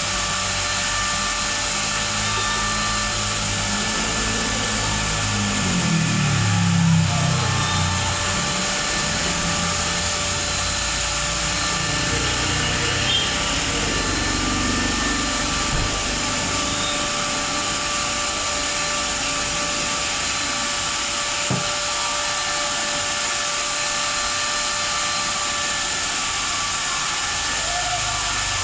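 A small motor running steadily with a constant whine and hiss, unchanging throughout, with a slight swell about seven seconds in and a faint knock about twenty-one seconds in.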